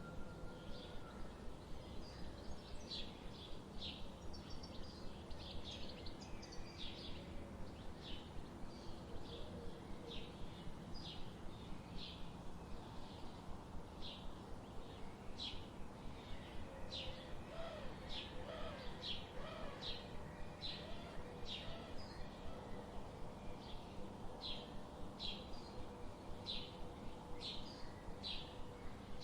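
Forest ambience: small songbirds giving short, high chirps about once a second over a steady background hiss, with a fainter, lower wavering bird call in the middle.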